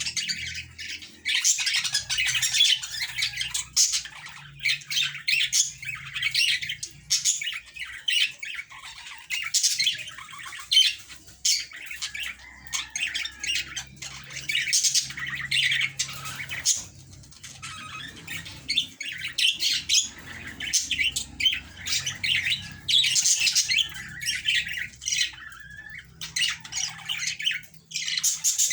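Budgerigars chattering and squawking almost without pause, a fast jumble of short, high, scratchy calls.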